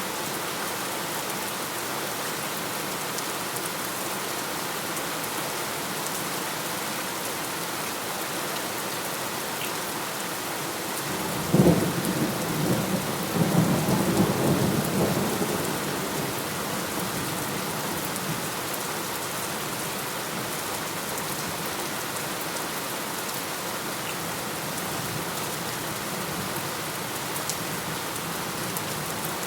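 Steady heavy rain hissing on surfaces, with one thunderclap about twelve seconds in: a sharp crack followed by a few seconds of rumble that fades back into the rain.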